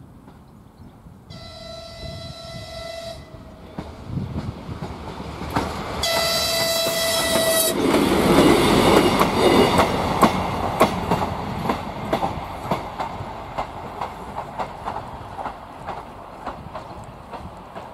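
ČD class 814 diesel railcar sounding a one-note horn twice, a blast of about two seconds and then a louder, shorter one, as a warning for a level crossing with no lights or barriers. It then passes close, its engine and wheels loudest a few seconds after the second blast, and the wheels click over the rail joints in a rhythm that fades as it moves away.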